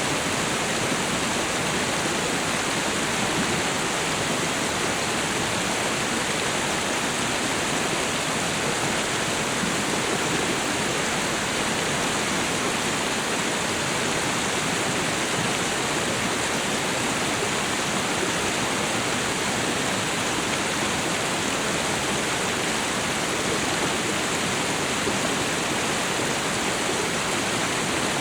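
Waterfall and river water rushing in a steady, even hiss that does not change.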